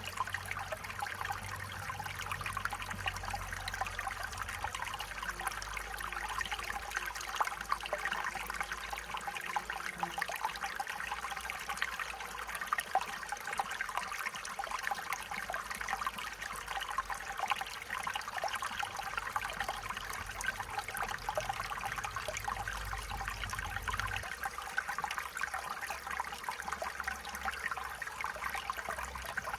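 Stream water flowing and trickling steadily over stones, with a faint low rumble beneath that eases off in places.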